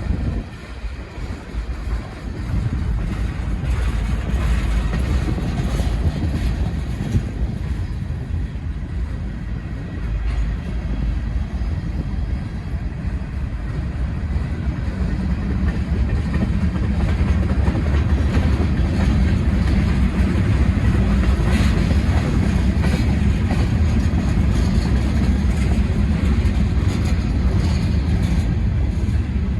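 Freight train of hopper cars rolling past: a continuous rumble of steel wheels on rail, with repeated clicks as the wheels cross rail joints, growing a little louder about halfway through.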